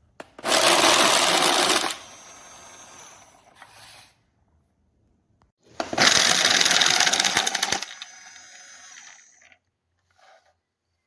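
Battery-powered automatic card shuffler running twice, each time for about two seconds: its motor whirs while rollers riffle the cards together, then it runs on more quietly for a moment before stopping.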